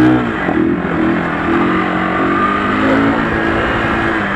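Sport motorcycle engine pulling under load while riding, its pitch holding nearly steady with a slight rise, over rushing wind noise.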